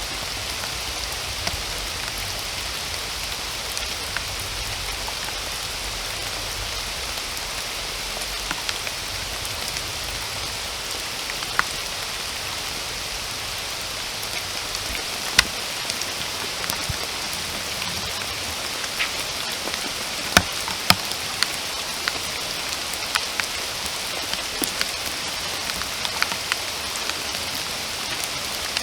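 Steady rain falling in an even hiss, with single drops ticking sharply close by at irregular moments, a few louder ticks around the middle.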